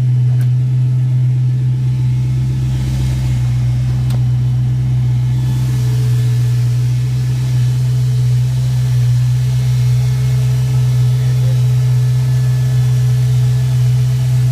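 1965 Ford Mustang's 302 V8 engine running steadily with a low rumble.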